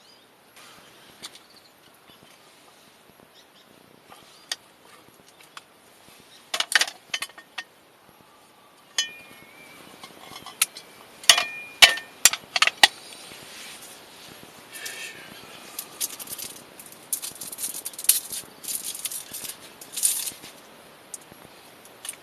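Scattered clicks and clinks, as of small hard objects being handled, with bursts of rustling in the second half.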